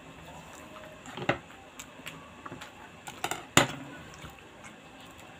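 A person chewing a mouthful of sushi, with soft mouth noises and a few sharp clicks and taps, the loudest about three and a half seconds in.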